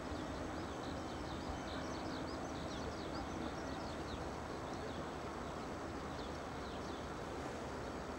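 Small birds chirping in quick, high, repeated down-slurred notes, in two bursts, over the steady low rumble of an electric train running away down the line.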